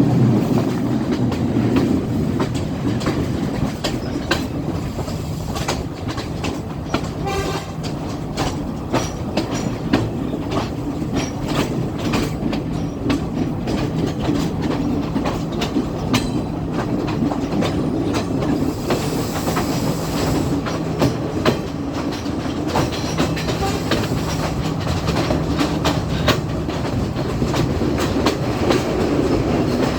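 Class S14 diesel multiple unit running along the line: wheels clacking over rail joints in frequent sharp clicks over a steady engine and rolling drone.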